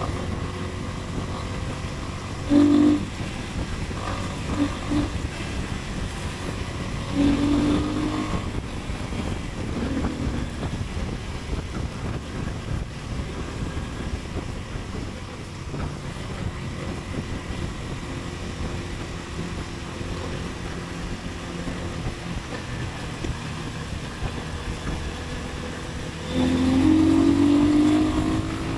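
Motorcycle ride sound: a steady engine rumble with wind on the microphone. A few short engine revs come early on, and a longer rev near the end rises in pitch as the bike accelerates.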